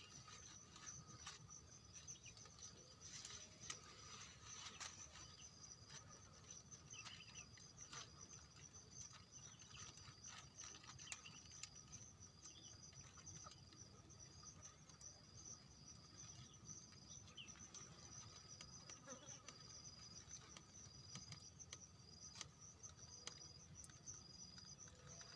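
Faint insect chorus: a steady high-pitched buzz with a regularly pulsing trill, over quiet background with a few scattered faint ticks.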